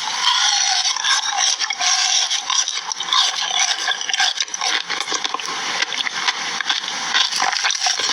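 Close-miked food sounds: a dense, continuous run of small crackles and scrapes, typical of crunchy white food being handled and eaten for ASMR.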